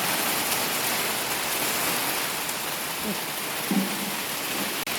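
A sudden monsoon rain shower falling steadily, an even hiss of rain.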